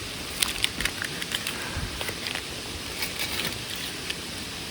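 Steady rush of a mountain stream with a waterfall, with a scatter of small, irregular sharp clicks and crackles through most of the first three and a half seconds.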